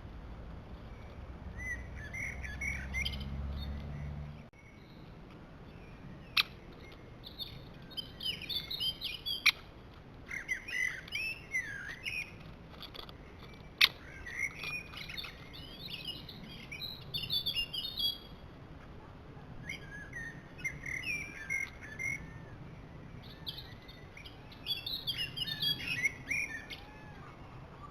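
Small birds chirping and singing in repeated short phrases, with three sharp clicks among them. A low rumble underlies the first few seconds and cuts off suddenly.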